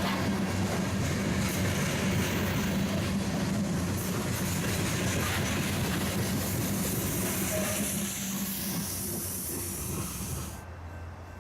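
Freight train rolling past: a dense rush of steel wheels on rail over a steady low diesel hum. The rush drops away suddenly near the end.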